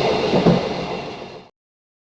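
Running noise of a passenger train heard from inside the carriage, a steady rumble with a thump about half a second in, fading out and stopping about a second and a half in.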